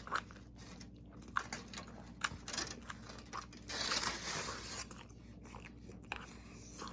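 Close-up biting and chewing of a burrito: scattered small wet mouth clicks, with a louder stretch of noisy chewing about four seconds in.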